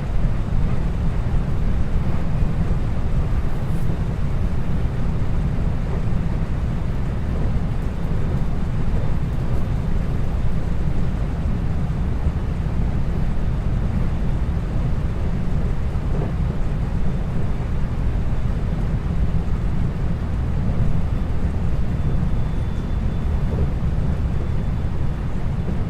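Interior running noise of a 521-series electric multiple unit motor car (KuMoHa 521-24) under way: a steady low rumble of wheels on the rails with an even rushing noise above it.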